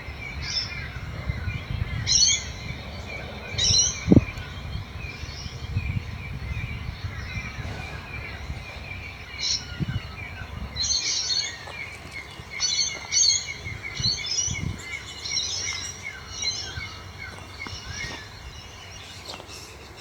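Birds chirping in short, repeated bursts of high calls, thickest in the second half. A single thump about four seconds in, over a low rumble that dies away about halfway through.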